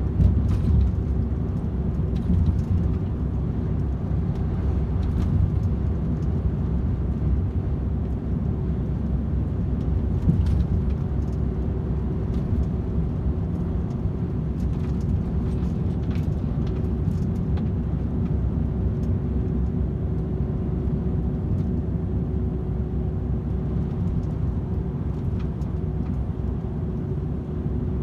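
DAF XF 510 tractor unit's 12.9-litre inline-six diesel cruising at steady motorway speed: a continuous low engine and road drone with a steady hum above it and no change in pitch. A few faint knocks come through now and then.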